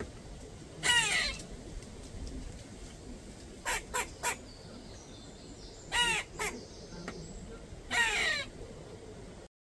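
A bird calling over quiet outdoor background, about four times: once near the start, a pair of short calls around the middle, another pair, and one more near the end, each call falling in pitch. The sound cuts off suddenly just before the end.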